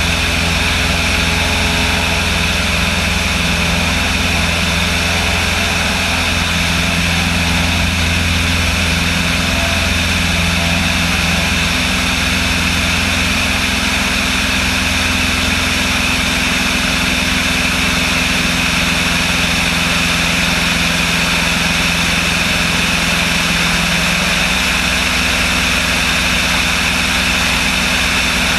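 Propeller aircraft's engine running steadily with an even drone and hiss, its pitch shifting slightly about 24 seconds in.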